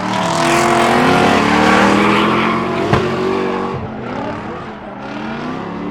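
Drift cars sliding past under power, engines revving up and down over tyre squeal, loudest for the first four seconds, with a sharp pop about three seconds in.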